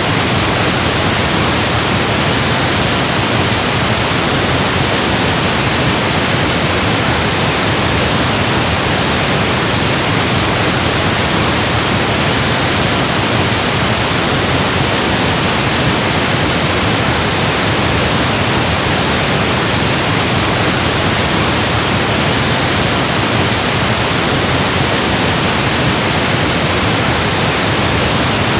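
Electronically generated pink noise: a steady, even hiss with no change or events.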